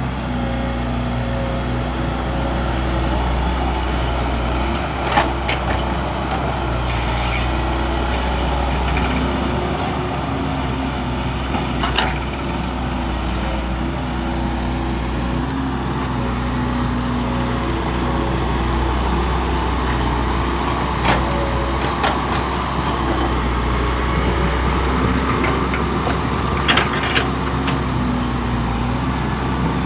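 Heavy diesel engine running steadily under a varying load, with a few sharp knocks along the way.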